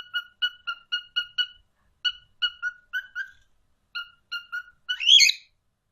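Pet parrot giving a rapid series of short, identical beep-like calls in small groups, then one louder call that slides up and down in pitch about five seconds in.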